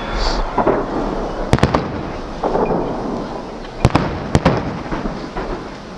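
Celebratory fireworks display: loud sharp bangs of shells bursting in quick clusters, about three together a second and a half in and more around four seconds, over continuous crackling and rumbling echo.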